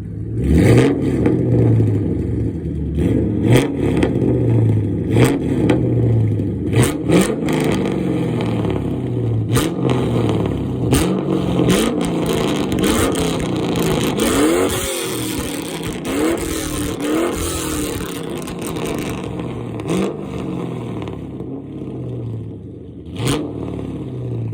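Straight-piped 2V Mustang GT's 4.6-litre V8 revved over and over at a standstill, through stock manifolds, an H-pipe and no mufflers. Each rev climbs and falls back, with sharp cracks between the revs.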